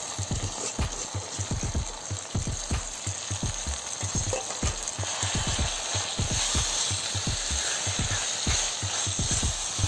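Tomato masala sizzling in a steel pot over a wood fire as washed raw rice is mixed into it by hand, with frequent short low knocks, two to four a second, under the hiss of the frying.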